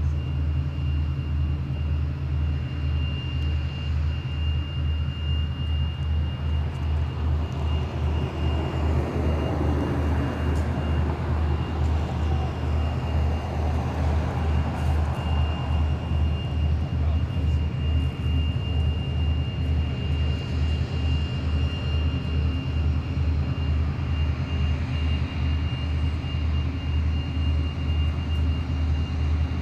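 Towboat's diesel engines running under power, a deep even throb. The speaker takes them for EMD locomotive-type prime movers. A broader rush swells up in the middle and fades again.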